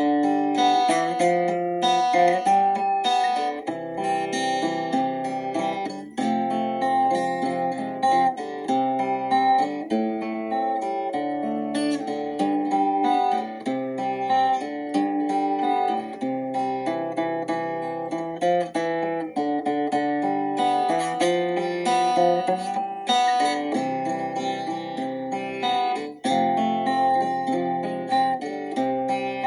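Instrumental music played on acoustic guitar, plucked notes forming a slow melody over chords.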